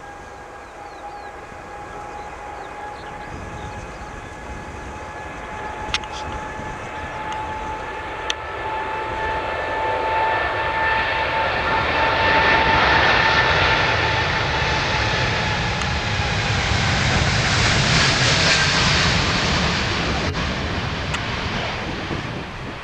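Boeing 787-9 twin-jet airliner taking off: a steady engine whine rises slightly in pitch as the jet noise builds and stays loud through the middle, then fades near the end as the aircraft climbs away. Two brief clicks come about a third of the way in.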